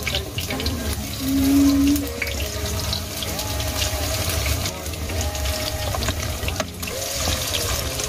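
Broccoli and chicken fritters frying in hot oil, a steady crackling sizzle, while a spatula moves and turns them in the pot.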